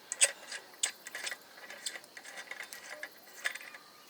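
Irregular mechanical clicking and ratcheting of a small mechanism, with sharp clicks at uneven intervals.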